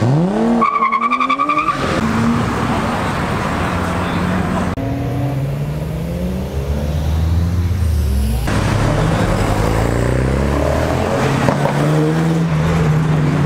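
Performance car engines revving hard and accelerating away, the pitch climbing and falling with each rev, across several abruptly cut clips. A brief high whine sounds about a second in.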